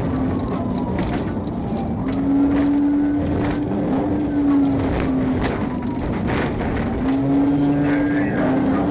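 Patrol car engine and road noise during a high-speed pursuit: a steady engine drone that steps up and down in pitch a few times as the car speeds up and slows.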